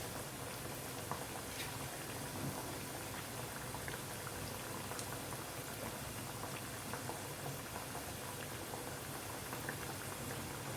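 Dal vadas (tur dal fritters) frying in hot oil: a steady sizzle with scattered small pops and crackles.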